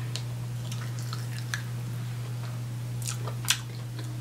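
Close-up eating sounds: a chicken wing being chewed, with finger licking, as scattered short wet clicks and smacks and one sharper click about three and a half seconds in. A steady low hum runs underneath.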